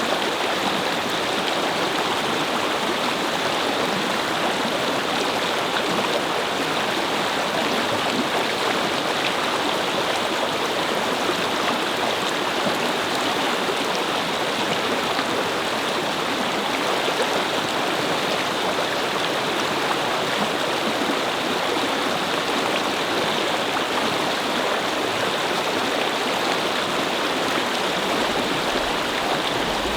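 A babbling brook: water flowing and splashing over stones, a steady, even rush. A faint low rumble comes in near the end.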